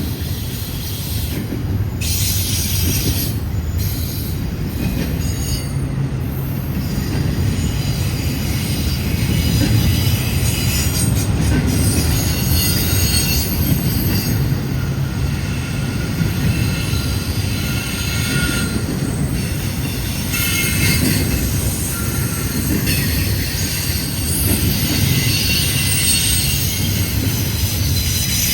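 Freight train rolling past, with a steady rumble of cars on the rails and intermittent high-pitched wheel squeal.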